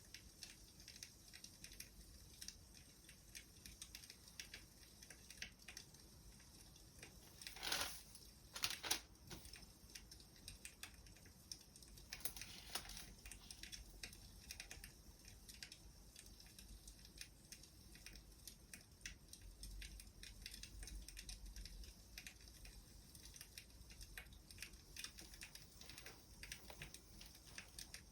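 Wood fire crackling faintly with dense, irregular small crackles and a few louder pops about eight to nine seconds in.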